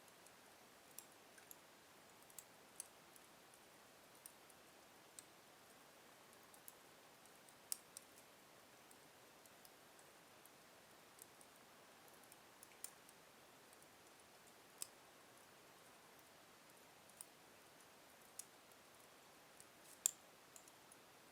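Wood fire burning slowly in a fireplace: faint, scattered crackles and sharp little pops from the logs over a low hiss, with one louder snap near the end.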